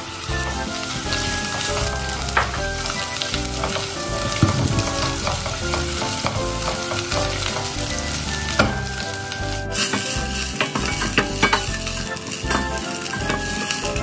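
Laksa paste and chopped shallots sizzling in hot oil in a stainless steel pot, stirred and scraped against the pot with a wooden spatula.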